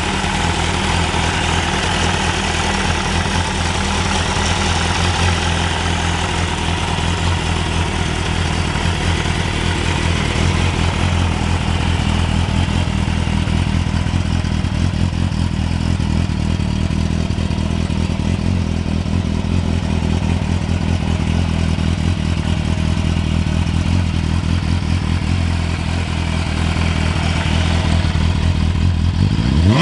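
MV Agusta F4RR sport bike's inline-four engine idling steadily.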